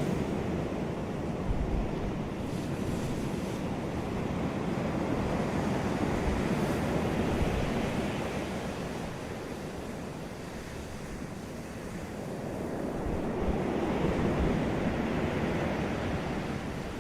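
Sea waves washing onto a beach: a steady rushing surf that swells and eases, with two broad surges, one in the middle and one near the end.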